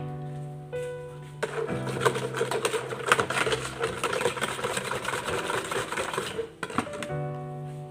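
A utensil stirring quickly in a container for about five seconds, a fast rattling clatter that starts a second and a half in and stops near the end, likely dissolving the sugar in the warm water. Background music plays throughout.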